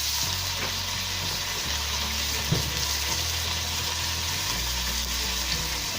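Curd (yogurt) going into a pan of hot, oily onion and spice masala, sizzling steadily, with a single knock about two and a half seconds in.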